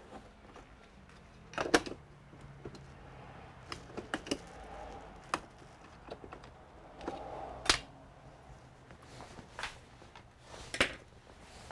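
Scattered sharp clicks and knocks from hands working on a computer, about seven in all and a second or more apart, the loudest three near the start, the middle and the end, over a faint steady hum.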